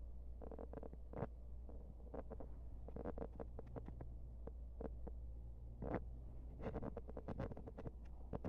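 Faint, irregular clicks and knocks, some coming in quick clusters, over a steady low hum.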